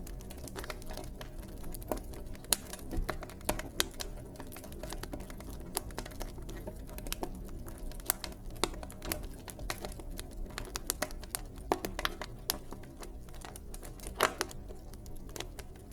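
Wood fire in a fireplace crackling: irregular sharp snaps and pops over a low, steady rumble of the flames.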